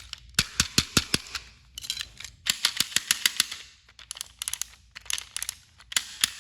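Irregular clusters of sharp plastic clicks and clacks as a battery-powered toy train tender is handled and its battery and switch worked. There is no motor hum: the tender's motor seems to be dead.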